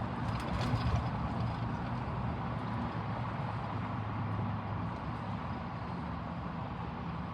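NJ Transit Meadowlands train passing: steady rumble with a low engine hum and a few wheel clicks in the first second, the hum dying down after about five seconds.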